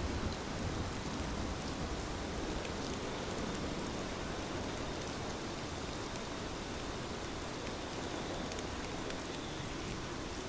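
Steady rain falling: an even hiss dotted with scattered sharp ticks of individual drops.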